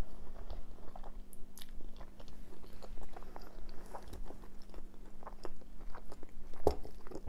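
Close-miked chewing and wet mouth sounds of someone eating chilli cheese fries, with many short clicks and smacks as a metal fork digs into the fries on a wooden board. A faint steady low hum runs underneath.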